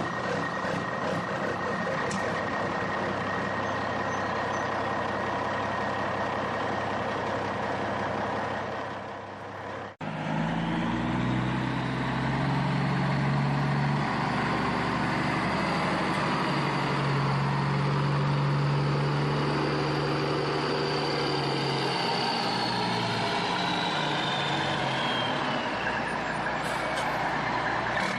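Truck engine running steadily. About ten seconds in it gives way to a deeper engine note, with a high whine that slowly rises and then falls away.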